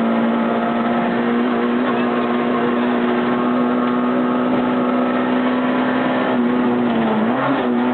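Peugeot 106 Rallye's four-cylinder petrol engine pulling hard at steady high revs, heard from inside the cabin. Near the end the engine note dips, flares briefly and settles lower.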